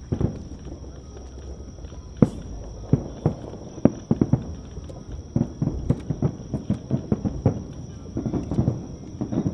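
Aerial fireworks shells bursting: a string of sharp booms and bangs at irregular intervals, coming thick and fast in a dense barrage in the second half.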